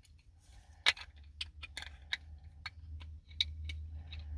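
Sharp, irregular clicks and light knocks of an insulated tumbler's hard parts being handled and fitted together, about eight in a few seconds.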